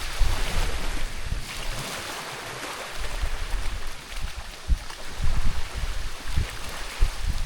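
Small waves washing in, a hiss of water that swells and eases every second or two, with wind buffeting the microphone in low rumbles.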